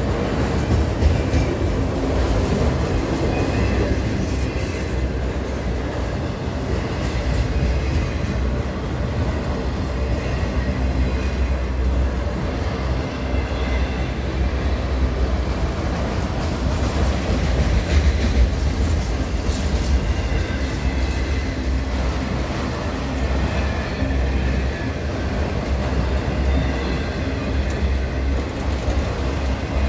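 Norfolk Southern freight train of autorack cars rolling past at close range: a steady rumble of steel wheels on the rails, with faint high wheel squeal now and then.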